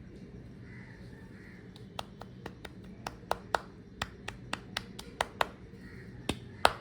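Sharp, irregular taps of a ginger garlic powder container being knocked and shaken to get the powder out, starting about two seconds in, with the powder no longer coming out.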